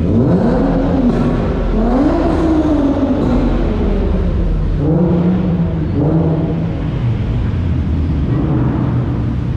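Car engine revving several times over a steady low engine rumble: the pitch climbs and levels off about the start, again around two seconds in, and twice more around five to six seconds in.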